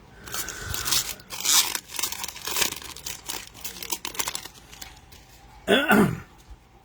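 Card pack wrappers being torn open and crinkled by hand: a run of irregular crackling rips. Near the end, a short voice-like sound that drops sharply in pitch.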